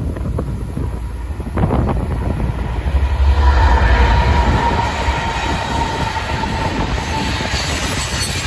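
Florida East Coast freight train passing close by. The lead GE ES44C4 diesel locomotives go past with a loud low rumble about three to five seconds in, with a steady whine through the middle. Loaded rock hopper cars then roll by on the rails.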